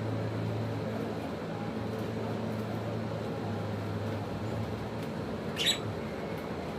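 One short, high squeak from a lovebird about five and a half seconds in, over a steady low hum.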